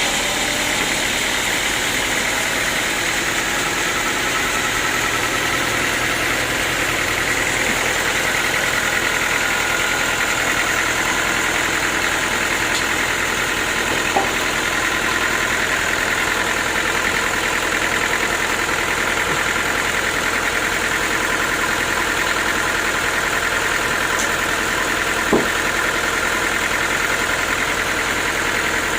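Sawmill machinery running steadily, with its engine and saw going at an even pitch and level. Two brief light knocks come about halfway through and again near the end.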